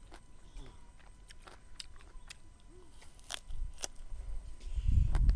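A few light clicks of fingers picking at food, then close-miked biting and crunchy chewing of a raw green vegetable dipped in prahok, getting louder near the end.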